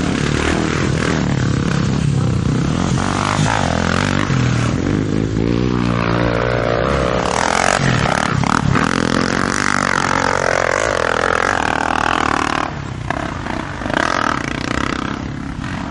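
Honda XR 250 Tornado single-cylinder four-stroke motorcycle engines running hard in a drag race, their pitch rising and falling repeatedly as they rev through the gears. The engine noise drops somewhat about thirteen seconds in.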